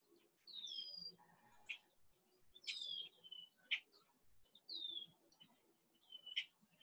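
Songbirds calling faintly: four clear, high whistled notes that each slide downward, roughly one every second and a half, with short sharp chips in between.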